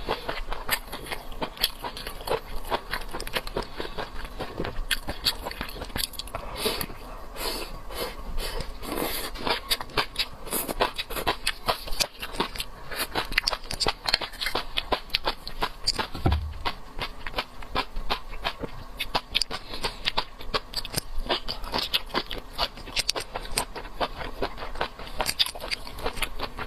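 Close-up chewing and wet mouth smacking while eating seafood: a steady run of quick, irregular clicks and crunches.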